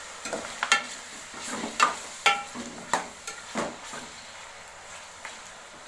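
Metal spoon clinking and scraping against a karahi as chicken frying in oil is stirred: a run of sharp, ringing knocks over the first four seconds, over a steady sizzle of frying.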